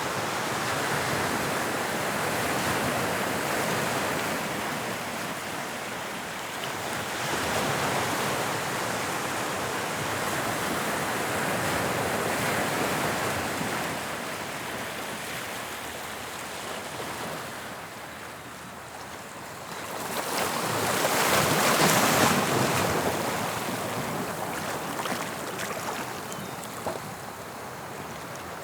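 Waves of the English Channel breaking and washing on the shore: a continuous rush of surf that swells and ebbs every few seconds, with the loudest wave breaking about twenty seconds in.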